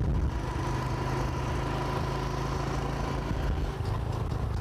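Motorcycle engine running steadily under a low rumble; its pitch drops a little about four seconds in.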